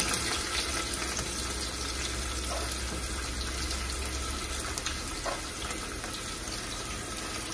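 Steady sizzle of ginger, garlic and green chilli frying in hot oil in an open pressure cooker on a gas burner as chopped onion is scraped in, with a low hum underneath that stops about halfway through.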